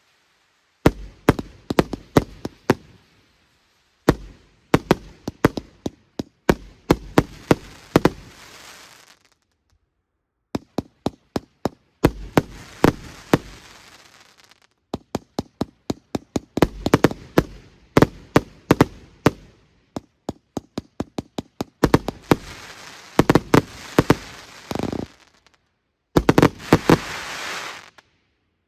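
A 90-shot "Wild West" firework battery (cake) firing: sharp launch and burst bangs come several a second in volleys with short pauses between them, and a crackling hiss follows the volleys. The firing stops shortly before the end.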